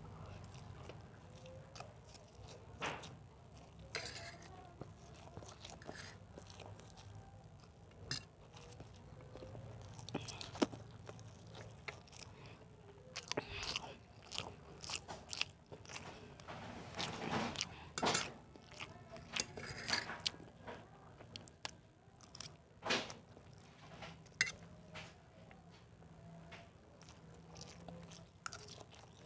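Close-up eating sounds: a person chewing mouthfuls of dry noodles and rice, with scattered short clicks from the fork against the plate.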